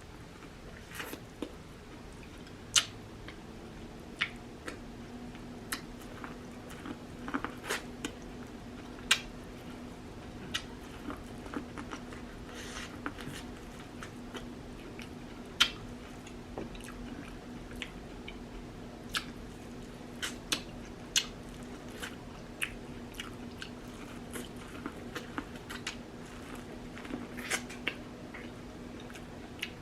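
Close-up eating sounds: biting and chewing food from a seafood boil, with irregular wet smacks and sharp clicks about once a second. A steady low hum runs underneath from about two seconds in.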